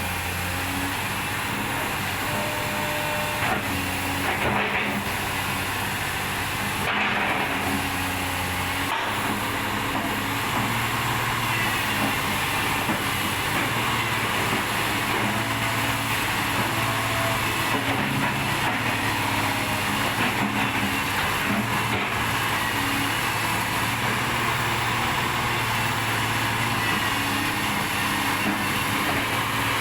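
A large engine running steadily with a constant hiss, its low hum stepping up and down in pitch every second or two.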